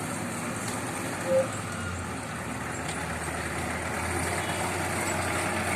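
Heavy road vehicle engine running steadily, slowly growing louder toward the end, with one brief louder sound about a second and a half in.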